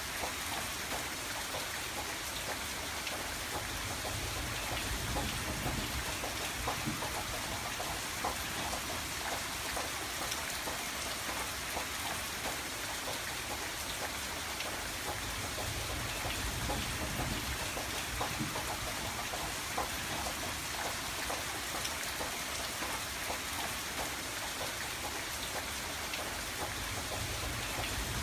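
Steady rain pattering on a window pane, with a dense patter of drops and a low rumble swelling and easing every few seconds.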